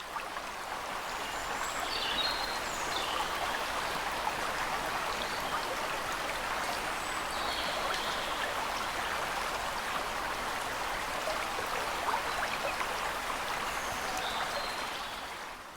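Steady rushing sound of flowing water, with a few brief high bird chirps over it. It fades in at the start and fades out near the end.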